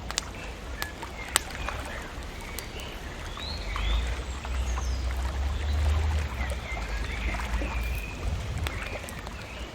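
Bonfire crackling with sharp pops, mostly in the first second and a half, while small birds chirp. A low rumble runs underneath.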